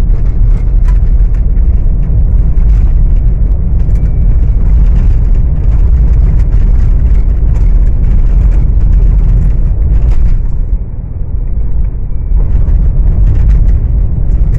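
Car driving on a road, heard from inside the cabin: a loud, steady low rumble of engine and road noise that eases briefly about eleven seconds in.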